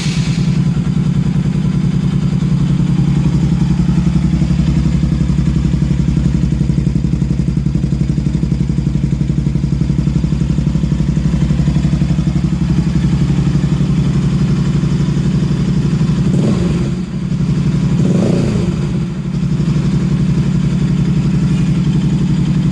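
Kawasaki Rouser 200NS single-cylinder engine idling steadily through its newly installed muffler, just after starting, then revved up twice briefly near the end.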